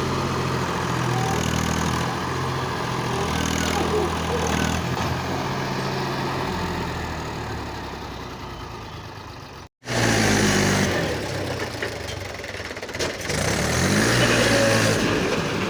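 Loaded tractor's diesel engine labouring uphill, its revs rising and falling under the strain. The sound cuts out abruptly for a moment a little under ten seconds in, then the engine revs up again.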